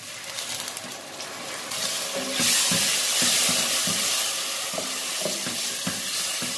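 Tomato puree hitting hot oil and fried onions in a steel pot, sizzling loudly; the sizzle swells about two seconds in. A spatula stirring the mixture gives knocks and scrapes against the pot.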